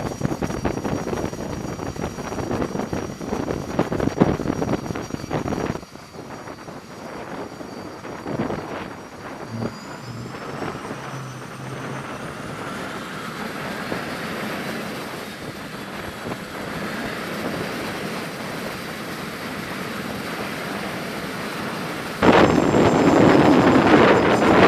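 Jet trainer's turbofan engine on a carrier flight deck, in edited cuts: a steady rushing roar, then a quieter stretch from about six seconds in where a high whine rises and levels off, then a sudden louder roar near the end.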